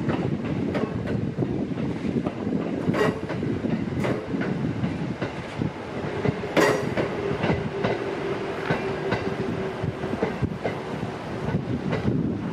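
Red-and-white Kintetsu electric commuter train passing, wheels clacking over the rail joints, with a steady whine for a few seconds in the middle.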